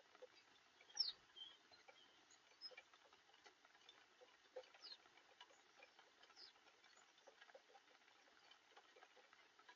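Rain pattering faintly as many small irregular ticks, with a few brief high falling chirps, the loudest about a second in.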